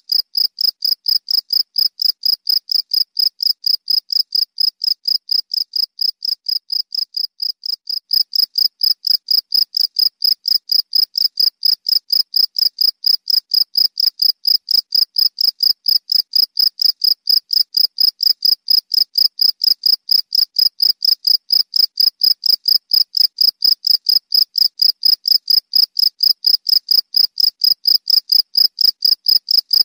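Cricket chirping continuously, a high-pitched chirp repeated evenly several times a second, getting a little louder about eight seconds in.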